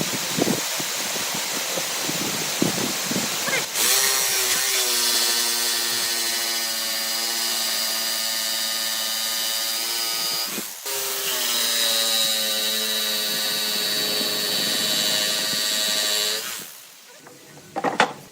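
An electric power tool running in a woodworking shop: a broad hiss at first, then a steady motor whine from about four seconds in that cuts out briefly, restarts, and stops about two seconds before the end.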